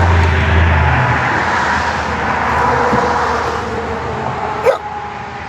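Passing road traffic: a steady rush of vehicle noise with a low engine hum that drops away about a second in. A dog gives a short yip near the end.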